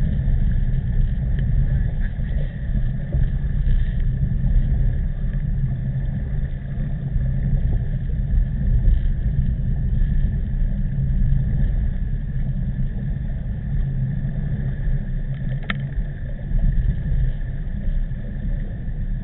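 Steady heavy wind noise on the microphone of a camera on a road bicycle being ridden in typhoon wind, with a faint steady whine above it and one sharp click about three-quarters of the way through.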